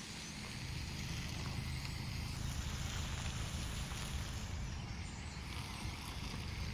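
A big flock of sparrows chattering together, a dense mass of chirps, over a steady low rumble.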